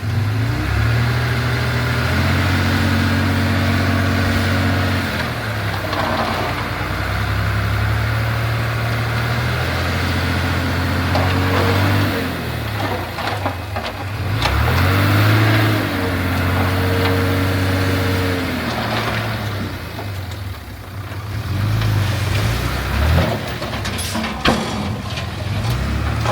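Heavy earthmoving machinery's diesel engine working under changing load. It repeatedly drops in pitch and revs back up, with a few sharp knocks and clanks near the end.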